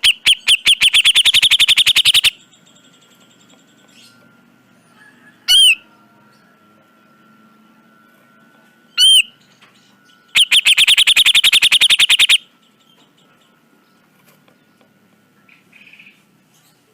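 Cucak jenggot bulbul calling: a rapid, harsh rattling series of notes for about two seconds at the start, two single sharp calls a few seconds apart, then another rattling series of about two seconds. A faint steady high tone lingers between the calls.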